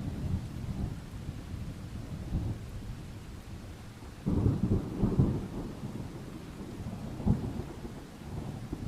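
Thunderstorm: thunder rumbling low and continuously over steady rain. A louder peal breaks in suddenly about four seconds in, and a short sharp crack comes a few seconds later.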